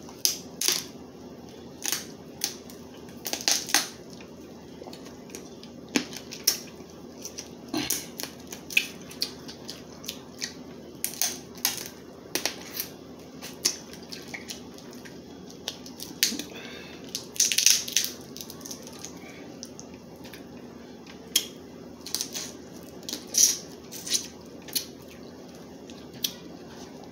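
Crab leg shells cracking and snapping as they are broken open by hand, in many sharp, irregular cracks and crunches.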